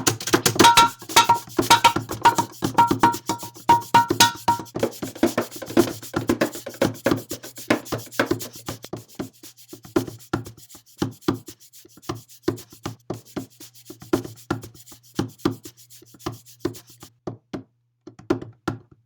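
Many quick taps and knocks, dense and irregular at first and sparser later, over a steady low hum that stops near the end. A string of short two-note beeps sounds in the first few seconds.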